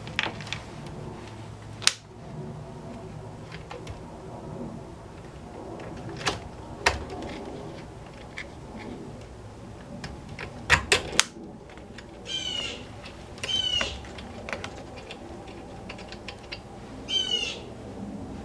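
Sharp clicks and clinks of small parts being handled and fitted while reassembling a string-trimmer/brush-cutter engine, including a quick run of three clicks partway through. A bird calls three times in the second half.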